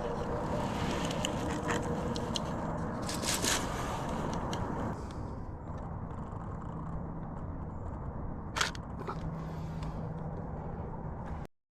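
Outdoor ambience: a steady low rumble with a faint hum, broken by a few short scrapes and crackles, that cuts off suddenly near the end.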